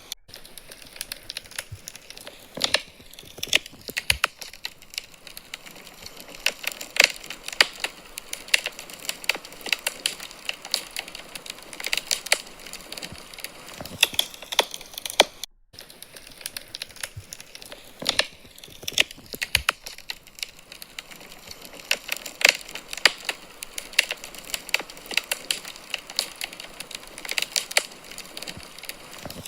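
Wood fire burning in a fireplace, crackling and popping with many irregular sharp snaps over a soft hiss, with a brief break in the sound about halfway through.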